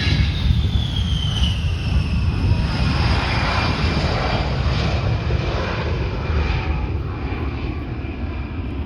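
A-10C Thunderbolt II jet's twin turbofan engines, loud, as it passes by: a heavy rumble with a high whine that falls in pitch over the first second or two, then a slow fade as it moves away.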